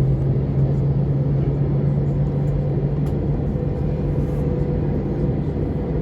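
Airliner cabin noise heard from a passenger seat: a steady rumble of engines and airflow under a constant low hum.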